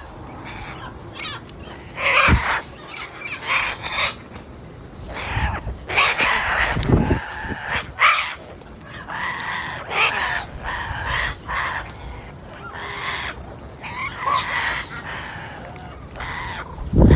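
Parrots giving repeated harsh squawks and calls, with a few low knocks in between.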